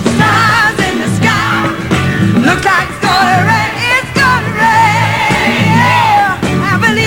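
Live band playing a pop-soul song's introduction: a steady bass line and drums under a melody line with strong vibrato.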